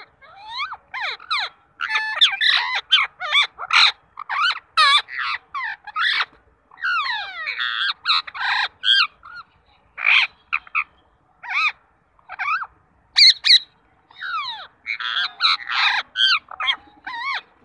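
Birds squawking and calling: a dense run of short, harsh, overlapping calls with brief pauses, the loudest about 13 seconds in.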